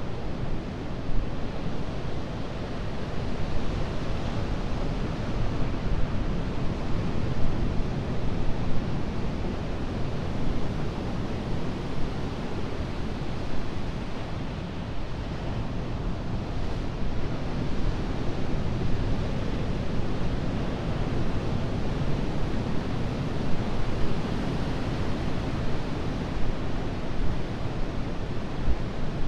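Ocean surf breaking and washing on a beach, a continuous rumbling wash that swells and eases gently, with some wind noise on the microphone.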